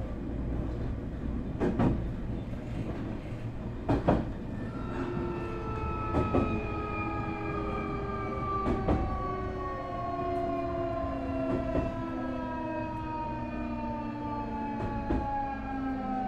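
Nankai 8300 series train with a two-level IGBT VVVF inverter driving totally enclosed induction motors, slowing down. From about five seconds in, its motor and inverter whine falls steadily in several pitches at once, over a running rumble. Wheel clacks at rail joints come further apart as the train slows.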